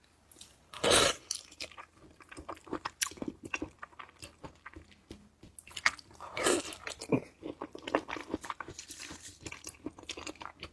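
Close-miked mouth eating sounds: a loud bite about a second in and another about six and a half seconds in, with steady wet chewing, smacking and small crackles between them.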